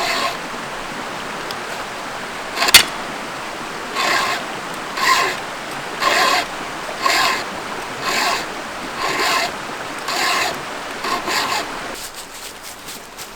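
Round file being pushed across a chainsaw chain's cutter teeth to sharpen them, in regular rasping strokes about once a second, with a single sharp click about three seconds in.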